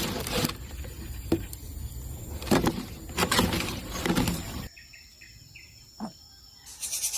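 Insects trilling steadily in two high tones over rustling and a few knocks; after an abrupt cut the rustling stops, leaving the insects, a few short chirps and a single knock, before louder rustling noise returns near the end.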